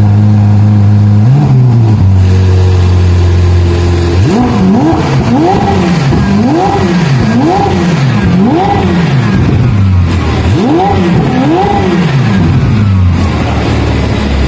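Ferrari F8 Tributo's twin-turbo V8 idling, then revved in a series of quick throttle blips about once a second, each rising and falling, before settling back to idle near the end.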